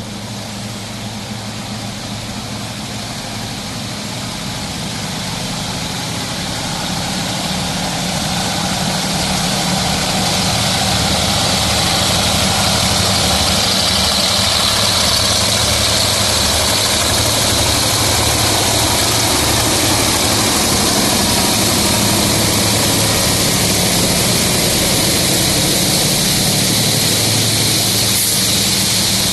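Diesel locomotives of a freight train working uphill, engines running with a steady low throb under load and growing louder over the first ten seconds or so as they approach, then holding. A steady hiss of rain sits under it.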